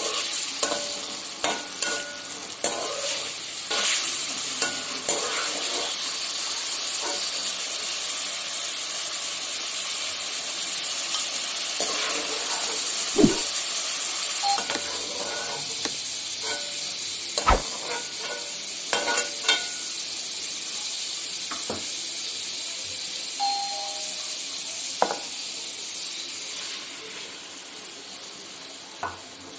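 Tomato chunks sizzling in hot oil in an aluminium wok, with a metal spatula scraping and clicking against the pan every so often. The sizzle dies down near the end.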